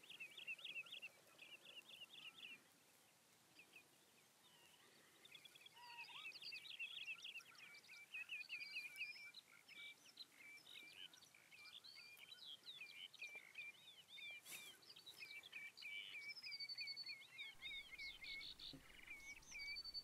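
Faint wild birdsong: runs of short, clear whistled notes repeated quickly, several birds calling over one another, with a brief lull a few seconds in.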